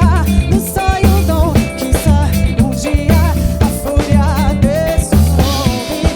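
Live band playing an upbeat samba-funk groove, with drum kit, electric bass and percussion holding a steady beat under a melodic lead line that wavers with vibrato.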